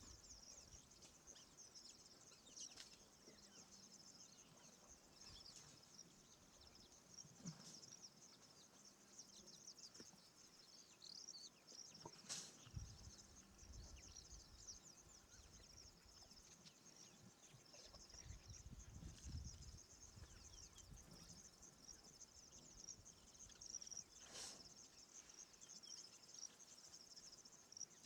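Near silence with faint, steady high-pitched insect chirring, broken by a few faint low sounds and a couple of sharp clicks.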